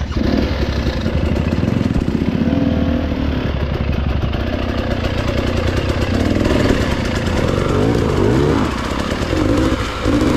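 Husqvarna TE 300i two-stroke dirt bike engine running on a trail, its pitch rising and falling as the throttle is worked.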